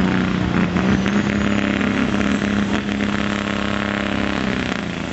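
Diesel pickup truck engine under full load, pulling a weighted sled, held at one steady high pitch and easing slightly lower near the end.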